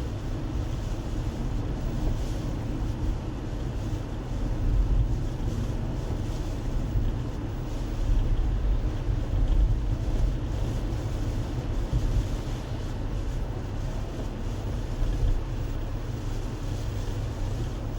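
Steady low road and engine rumble of a car being driven, heard from inside the car.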